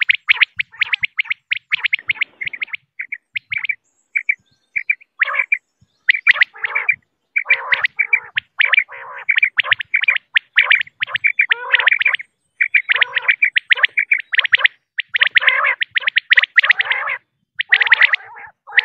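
Female common quail calling: a fast, steady run of short, high chirping notes, several a second, with a few brief pauses.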